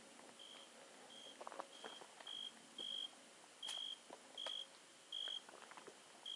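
A short, high, steady beep repeating about every two-thirds of a second, with faint clicks and footstep sounds between.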